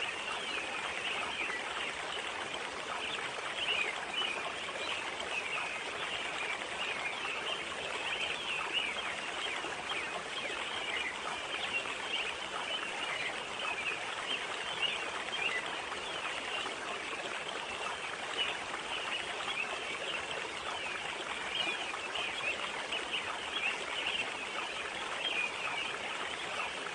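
Steady babble of running water in a forest stream or pond inlet.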